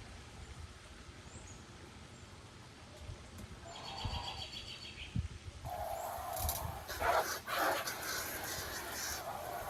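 Geese honking, a brief call about four seconds in, then louder, harsh repeated honks from about halfway through.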